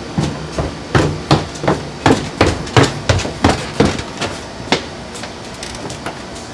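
A quick run of sharp knocks, about three a second, that stops after about four and a half seconds.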